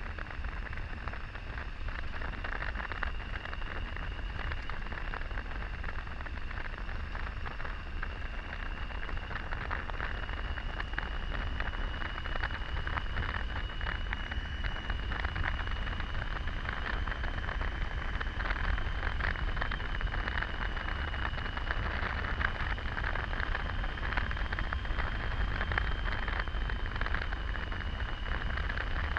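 Wind rushing over the microphone of a Triumph Tiger 800 motorcycle at highway speed, with low engine and road rumble underneath and a thin, steady high whine.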